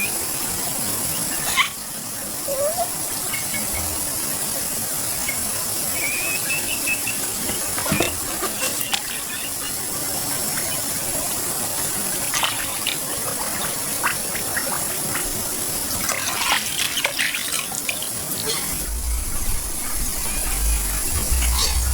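Pond water sloshing and splashing as someone wades and works their hands through the mud, with a few sharper splashes scattered throughout.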